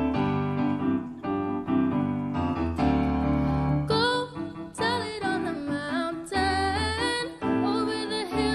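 Piano or keyboard playing sustained chords. About four seconds in, a wavering sung melody comes in over the accompaniment.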